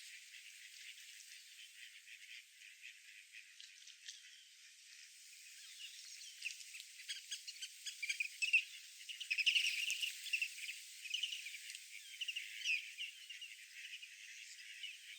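Birds chirping and twittering in quick short calls, sparse at first, then busier and louder through the middle and later part, over a faint hiss.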